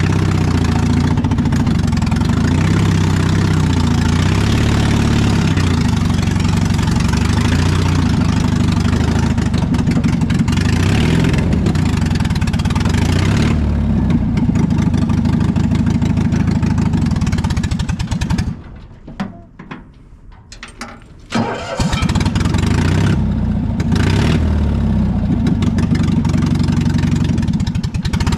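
Cold engine of an old vehicle running on choke. About two-thirds of the way through it drops out for roughly three seconds, then fires and runs again.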